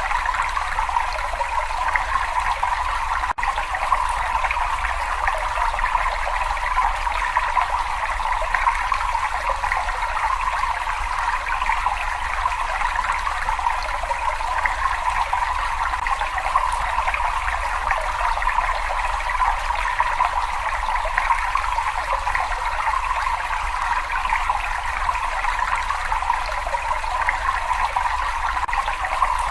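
Water in a cave running and trickling steadily, a continuous splashing flow, with a momentary dropout about three seconds in.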